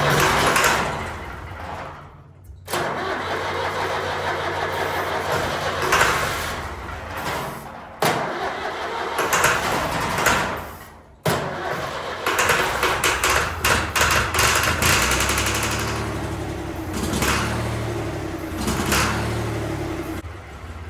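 Long 360 tractor's diesel engine cranking on the starter in several long bursts with short pauses, on a shot of ether, without catching. It won't pick up fuel, which the owner puts down to air probably still in the fuel system.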